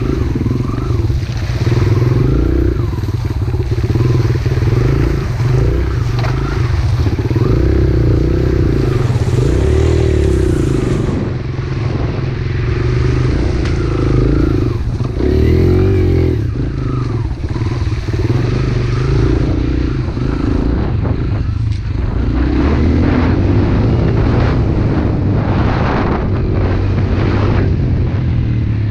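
Pit bike engine running under riding, the revs rising and falling over and over.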